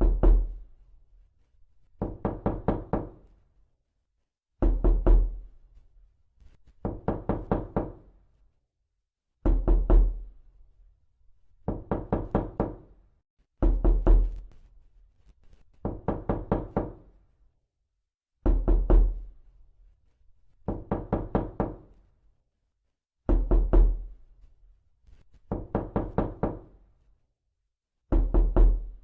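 Repeated knocking: short runs of several quick knocks, a run about every two seconds, with louder and softer runs taking turns.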